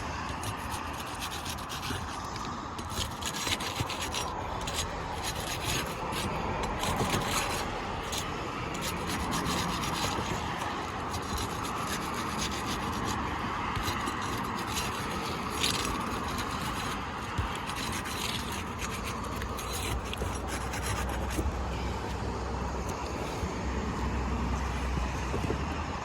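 Asphalt roof shingles being worked loose for removal: steady rubbing and scraping with many light clicks, busiest in the first third.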